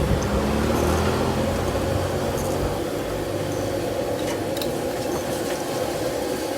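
A motor vehicle engine passing close by, its pitch sliding a little before it fades after about three seconds, over a steady background hum.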